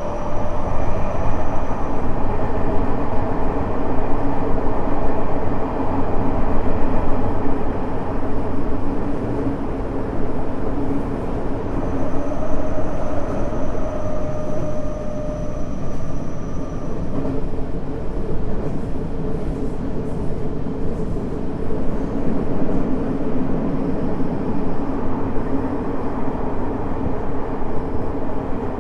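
Tokyo Metro 05 series subway car running on the rails, heard from inside: a steady rumble of wheels and track. A faint steady whine, typical of the Mitsubishi IGBT inverter drive, comes in near the start and again for a few seconds midway.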